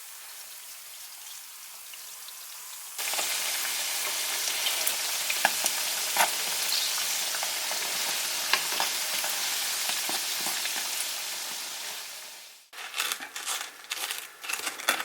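Kkwabaegi dough frying in hot oil. A fainter hiss jumps about three seconds in to a loud sizzle with crackling pops, which cuts off abruptly near the end; a few clicks and knocks follow.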